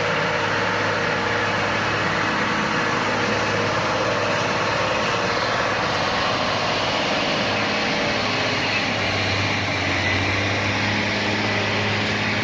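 Heavy truck diesel engine running steadily, with no change in pitch or level.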